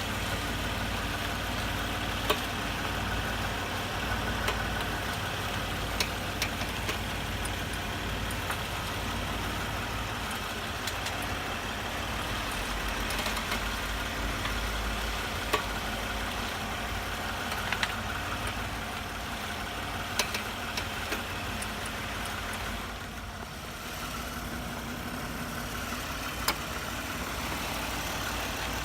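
Toyota Highlander suspension knocking: sharp, irregular single knocks or crackles, about seven of them, over the steady running noise of the vehicle. The noise persists even with new genuine struts and strut-mount bearings fitted, and its cause is unknown to the owner.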